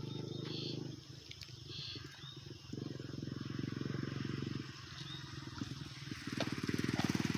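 Low, rapid putter of a small engine, coming and going in stretches of a second or two.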